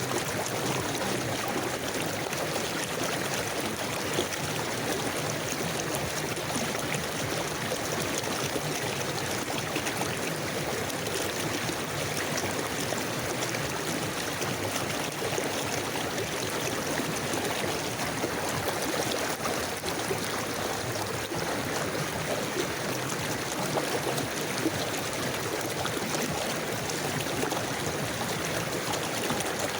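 Forest river flowing steadily, a constant rush of running water with a light trickle and gurgle.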